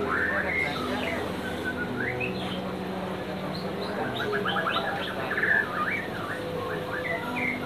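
Birds chirping and twittering, with many quick rising chirps and fast trills, over a steady low hum.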